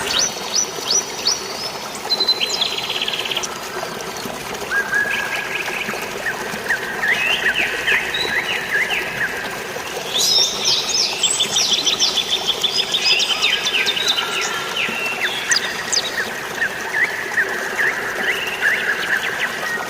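Several birds chirping and trilling in quick, overlapping runs of rapid notes, densest in the middle of the stretch, over a steady hiss of falling rain and water.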